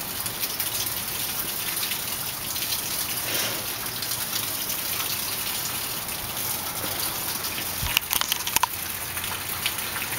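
Heavy rain from a tropical storm downpour falling in a steady hiss, with a few sharp taps near the end.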